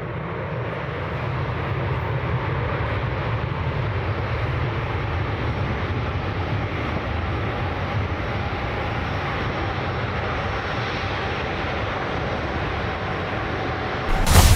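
Jet aircraft engine noise: a steady rushing roar with a deep rumble underneath. It builds over the first couple of seconds and then holds level, with a faint steady whine coming in during the last few seconds. A brief louder surge comes right at the end.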